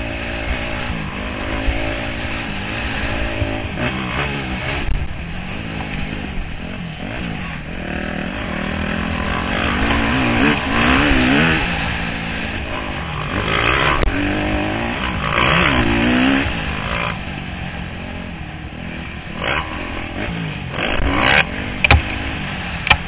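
250cc four-stroke motocross bike engine, heard from a helmet camera, revving up and down over and over as the bike is ridden around the track. A few sharp knocks come near the end.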